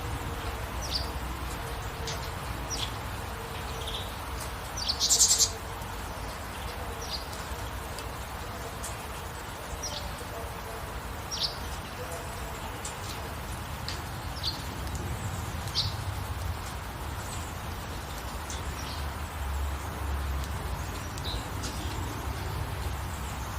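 Small birds chirping in short, separate calls over a steady hiss of gentle rain, with one louder, sharper call about five seconds in.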